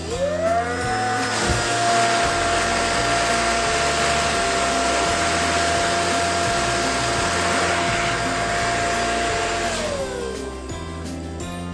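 Electric balloon pump running with a steady motor whine. It dips and spins back up right at the start, then winds down with falling pitch near the end.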